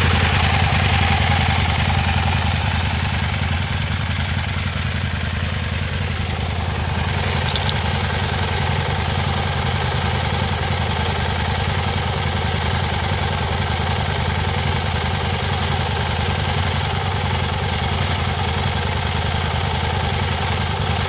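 Aprilia Tuono 1000 motorcycle engine idling steadily, dipping a little a few seconds in and then holding an even idle.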